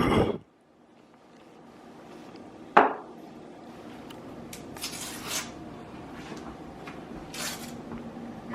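Dishes and utensils being handled: one sharp knock about three seconds in, then a few lighter clatters and rustles.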